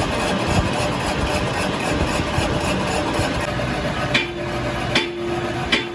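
Steady, rough running noise of workshop machinery, with three sharp metallic knocks near the end and a steady hum that starts with the first knock.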